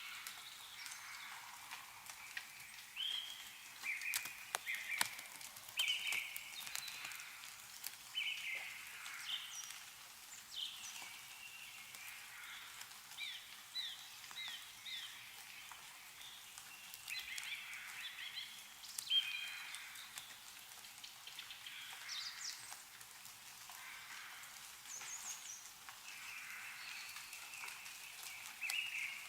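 Songbirds chirping and calling in short repeated phrases, with scattered drips of melting snow falling from trees.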